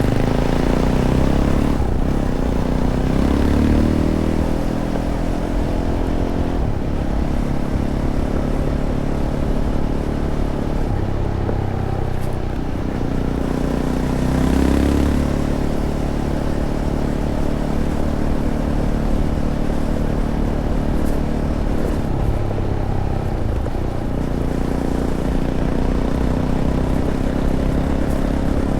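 Fantic Caballero 500's single-cylinder four-stroke engine, through its stock Arrow exhaust, running under way on a trail. The revs rise and fall twice, once a few seconds in and again about halfway, and hold steadier in between.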